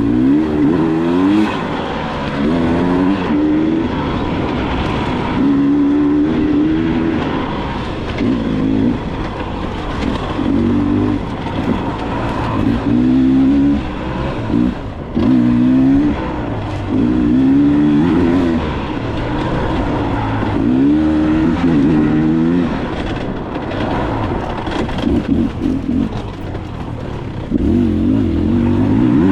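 Dirt bike engine revving up and down over and over as the throttle is opened and closed, its pitch rising then dropping every second or two.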